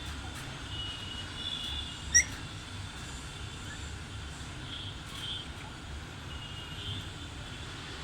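Faint, short high chirps over a steady low rumble, with one loud, sharp upward chirp about two seconds in.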